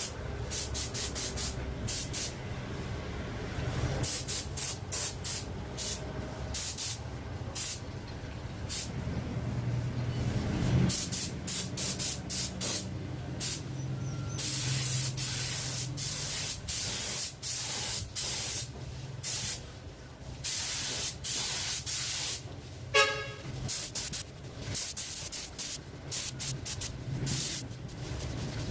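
Paint being sprayed in many short hissing bursts, with a few longer passes, as a pearl white topcoat goes on over primer. A low steady hum runs underneath, and a brief squeak comes about 23 seconds in.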